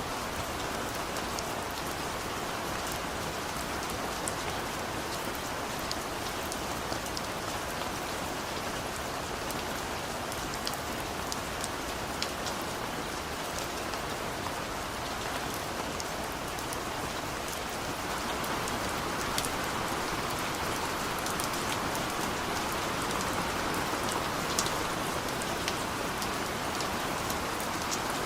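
Steady heavy rainfall, a dense even hiss with many individual drops pattering and ticking on leaves and surfaces. It swells slightly louder over the last third.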